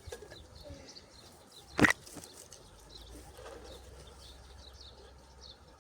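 Small birds chirping faintly and repeatedly, with one sharp knock about two seconds in.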